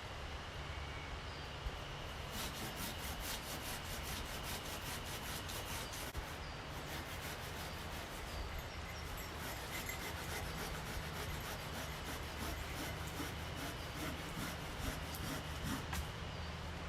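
Hand saw cutting through a fallen tree branch with rapid back-and-forth rasping strokes.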